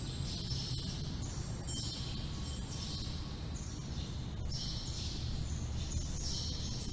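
Wind rumbling steadily, with small temple eave bells tinkling in it in short clusters every second or so, some leaving a thin high ringing note.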